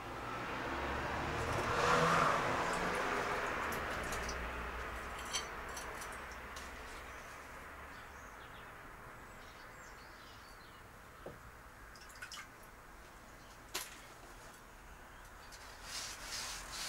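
Hot 5160 spring steel blade quenched in vegetable oil, sizzling: a hiss that swells over about two seconds and then fades slowly as the steel cools. A few sharp clicks or knocks follow near the end.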